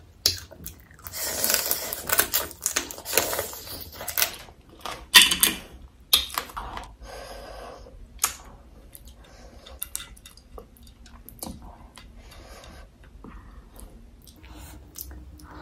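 Eating sounds: crackly crunching and wet chewing of seafood salad with crab and shrimp, in loud bursts through the first six seconds, then fainter clicks and rustles as fingers pick through the salad on the plate.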